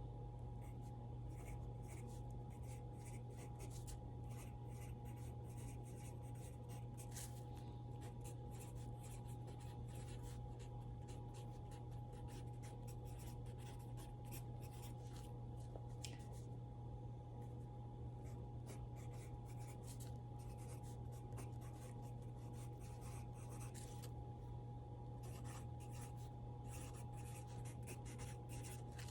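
Pencil scratching on paper in quick, irregular strokes, faint, over a steady low hum.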